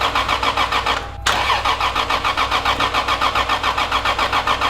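Toyota Supra Mk IV's 2JZ inline-six being cranked by its starter with a rhythmic chugging, stopping briefly about a second in and then cranking again, without catching. The engine is not firing, which the crew puts down to old fuel that will not ignite.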